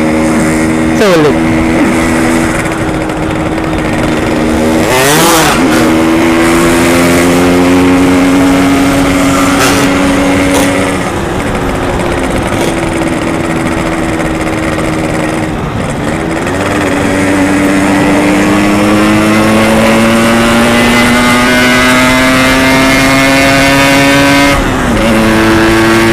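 Yamaha RX-King's two-stroke single-cylinder engine running under way, its pitch climbing steadily and dropping back sharply several times.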